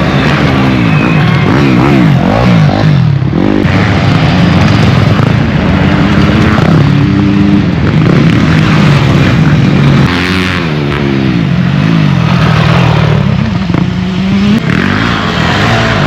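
Dirt bike engines racing, loud and continuous, revving up and falling off again and again as the riders open and shut the throttle and shift.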